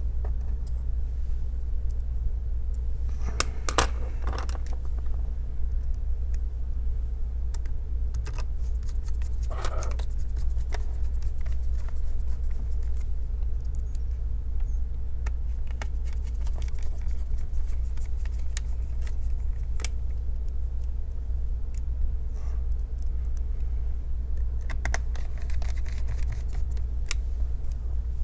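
Scattered small clicks, taps and rattles of laptop parts being handled and fitted by hand during reassembly, over a steady low hum.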